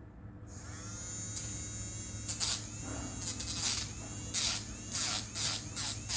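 Small handheld electric grinder whining as it switches on, then grinding in repeated short touches against a bird's beak to file down its sharp tip.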